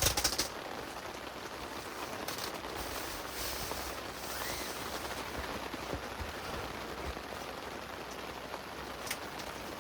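Steady heavy rain falling, an even hiss throughout. A quick cluster of sharp taps comes at the very start and a single sharp tap near the end.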